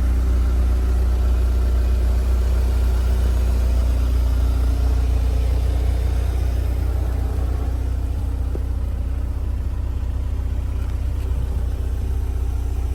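Toyota MR2's engine idling steadily with a deep, constant rumble, easing slightly in level about halfway through.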